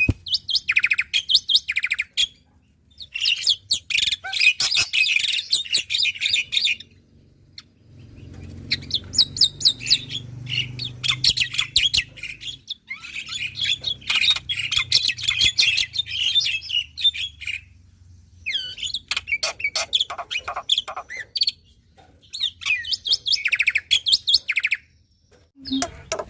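Black-winged myna (jalak putih) singing hard: bouts of fast, chattering repeated notes a few seconds long, broken by short pauses.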